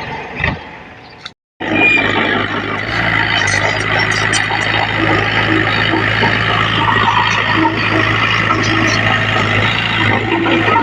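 Heavy diesel earthmoving machinery running steadily, a low engine hum under dense mechanical noise. The sound cuts out for a moment about a second and a half in, then comes back louder.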